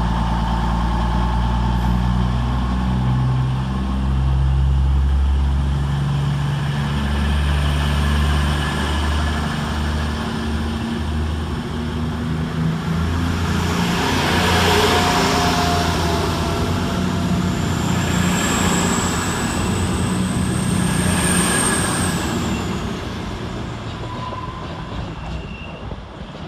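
Class 221 Super Voyager diesel-electric multiple unit pulling away. Its underfloor Cummins diesel engines rise and fall in pitch in steps, with a faint high whine rising in the second half, and the sound fades near the end as the train leaves.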